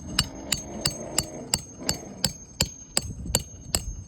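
Hand hammer driving a roofing nail into an asphalt shingle: a steady run of quick blows, about three a second, each with a high metallic ring.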